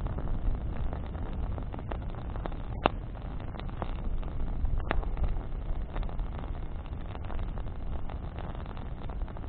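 Wood campfire burning: a steady low rushing noise with scattered sharp crackles and pops from the burning branches, the loudest pop about three seconds in.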